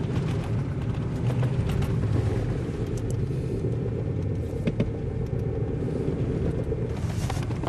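Steady low rumble of a motor vehicle running, with scattered light clicks and rattles.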